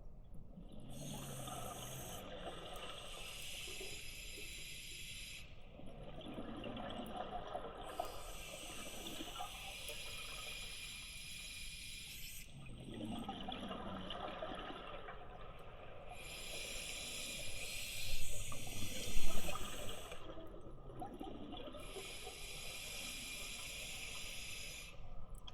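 Scuba diver breathing underwater through a demand regulator: long stretches of regulator hiss and bubbling alternate with short pauses, about four breaths, with the loudest bubbling about three-quarters of the way through.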